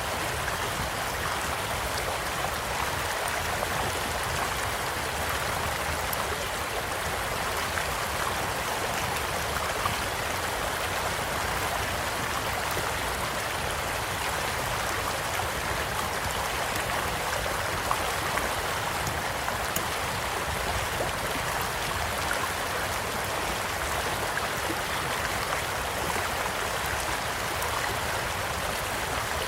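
Small stream flowing steadily, a constant gentle rush of water, with a few scattered sharp pops from a crackling wood campfire.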